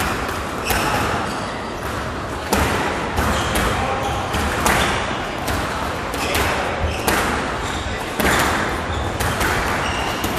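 Squash rally: sharp cracks of racket on ball and ball on the walls and floor, irregularly spaced about half a second to a second apart, with short high squeaks of court shoes between them.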